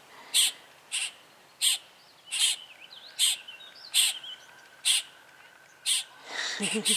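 Blackbird nestlings giving short, harsh begging squawks, about one a second, the calls of hungry young waiting for a parent to return with food.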